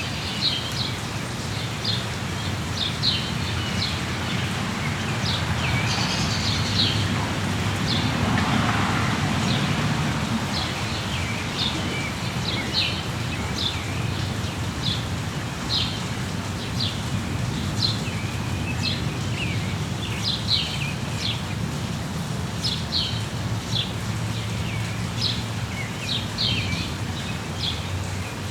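Steady rain with birds chirping over it: many short, high chirps repeating every second or so, with a brief swell of rain noise about eight seconds in.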